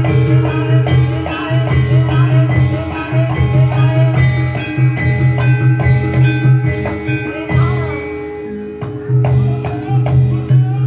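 Javanese reog / jaran kepang ensemble music: metal-keyed mallet percussion and drums playing a steady, rhythmic pattern, with a pulsing low note underneath.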